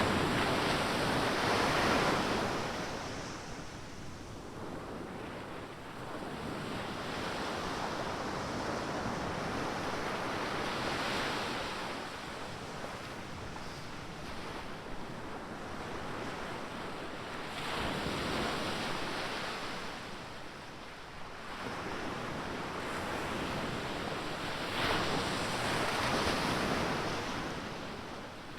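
Ocean surf on a beach: waves break four times, several seconds apart, each a swell of rushing noise that fades into the wash of water between.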